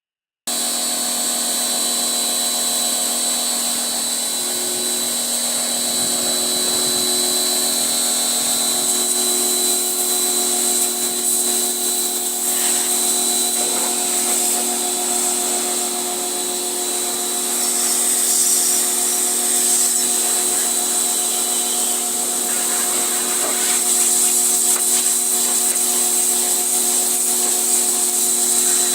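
Pressure washer running steadily: a constant motor hum with a strong high hiss over it.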